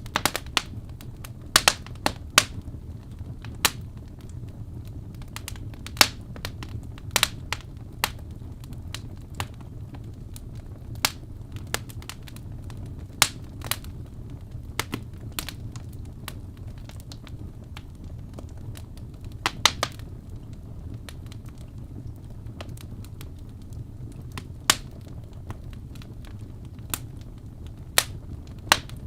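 Wood fire burning in a fireplace: a steady low rumble of flames with irregular sharp crackles and pops from the burning logs, sometimes several in quick succession.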